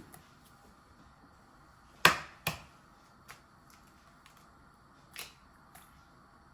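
Two sharp knocks about half a second apart, the first louder, followed later by a few faint clicks and taps of handling.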